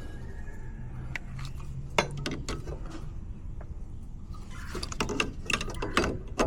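Metal hand tools clinking and clattering as they are handled, in scattered sharp clicks that come thicker near the end, over a steady low hum.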